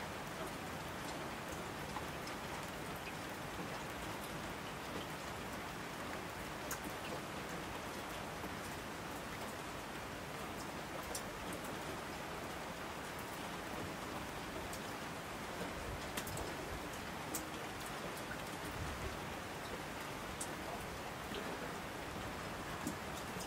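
A steady, even hiss with scattered faint ticks.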